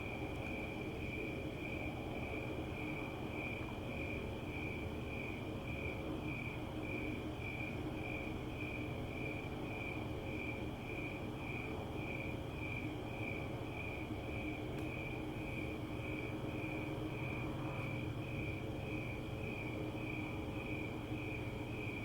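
Crickets chirping steadily in an even rhythm, about two high chirps a second, over a steady low hum.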